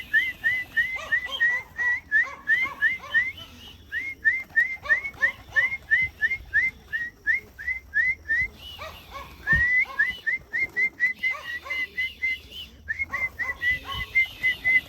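A person whistling to call pigeons into their loft: short notes that each rise in pitch, repeated about three times a second in long runs with a few brief pauses.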